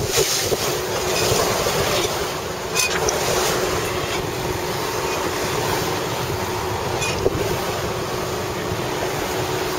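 Strong wind and water noise aboard a sailboat, with a faint steady hum and a few light knocks.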